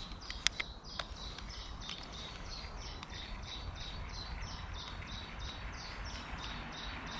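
A small bird calling a long, even run of short high chirps, about three a second, over a faint steady outdoor rumble, with a few sharp clicks in the first two seconds.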